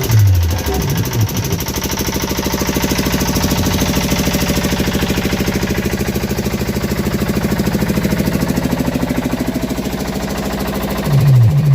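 Electronic DJ track: a fast, even buzzing pulse, many beats a second, held with a steady hum underneath. Falling bass drops come in near the end.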